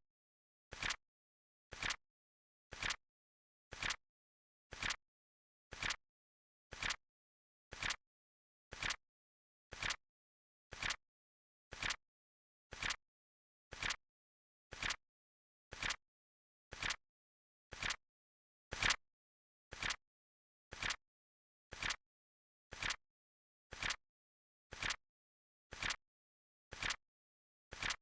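Flip clock timer sound effect: a short, sharp flip click once a second, evenly spaced, with silence between. One click about two-thirds of the way through is slightly louder.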